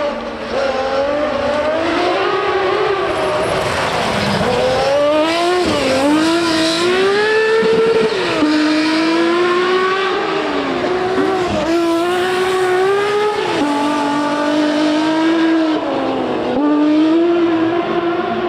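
Lancia Stratos rally car's Ferrari Dino V6 engine running hard under load, its pitch climbing and then dipping sharply at each gear change or lift, several times over.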